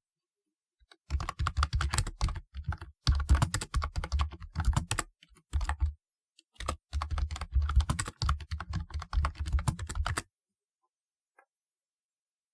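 Fast typing on a typewriter-style keyboard. Rapid runs of clacking keystrokes, each with a low thud, break off in short pauses and stop about ten seconds in.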